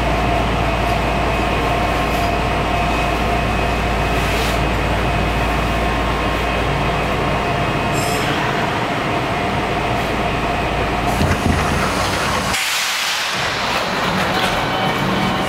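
Meitetsu Airport Line train running, a steady rumble of motors and wheels with a held humming tone. The low rumble drops away abruptly near the end.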